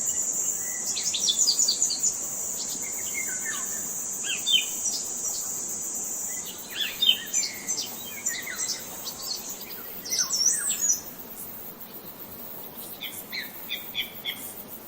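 Several songbirds chirping and trilling in short, repeated phrases, with a steady high-pitched buzz in the background that cuts out about two-thirds of the way through.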